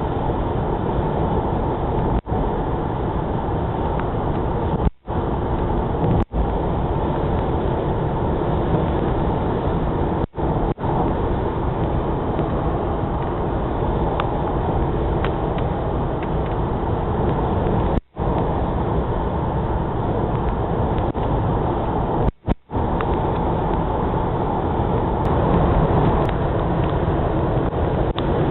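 Heavy rain: a loud, steady rushing noise, cut by a few brief dropouts of a split second each.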